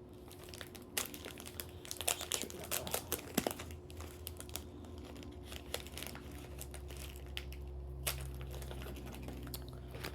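Plastic wrapper of a wafer snack bar crinkling and crackling as it is handled and opened, with sharp irregular crackles throughout.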